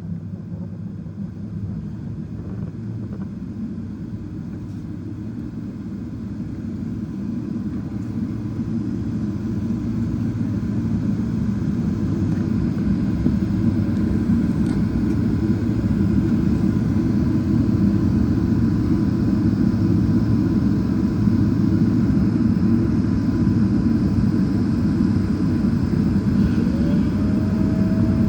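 Boeing 777-300ER's GE90 jet engines running, a steady low rumble that slowly grows louder, with a tone gliding up in pitch near the end.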